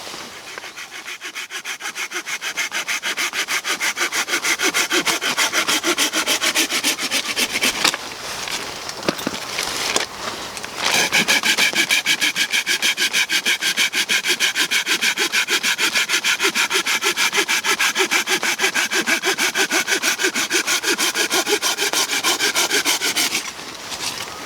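Hand saw cutting through a dead branch in quick, even back-and-forth strokes. There is a short pause about eight seconds in, then a second, louder run of strokes that stops about a second before the end.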